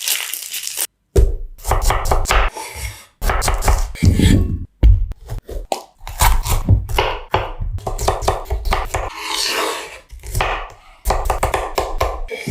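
Food being chopped on a cutting board, with quick strikes and handling noise in short snippets that cut off abruptly several times.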